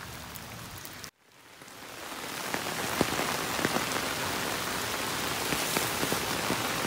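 Steady rain falling, with many single drops heard hitting a surface. The sound cuts out about a second in, then fades back up and carries on louder.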